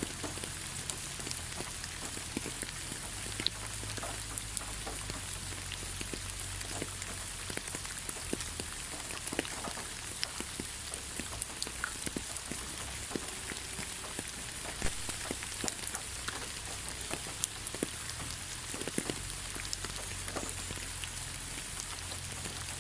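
Steady light rain: an even hiss with many separate drops pattering and ticking on leaves and surfaces.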